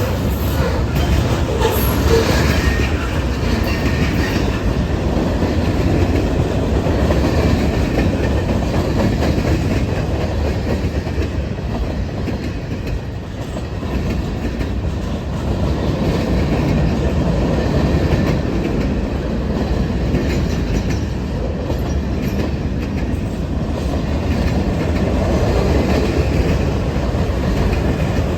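Norfolk Southern freight train rolling past steadily, its steel wheels clattering over the rails in a continuous rumble.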